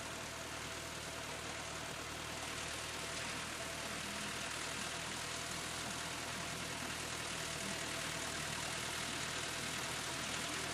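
Massey Ferguson tractor engine running steadily under a broad rushing noise, growing slightly louder over the stretch.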